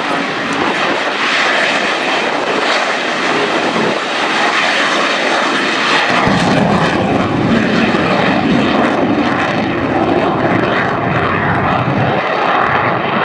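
Military jet aircraft flying over, a loud continuous roar that gains a deep rumble about six seconds in as it comes closer.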